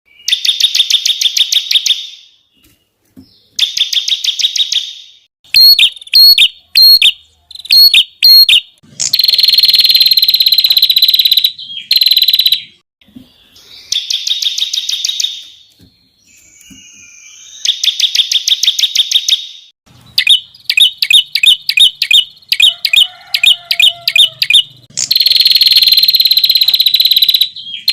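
Songbird song in the sharp, rapid-fire 'tembakan' style: bursts of fast high trills, each a second or two long, alternating with runs of separate sharp repeated notes, with short gaps between phrases.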